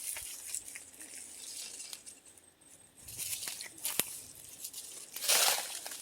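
Rustling and crinkling with scattered sharp clicks, and a louder burst of rustling about five seconds in.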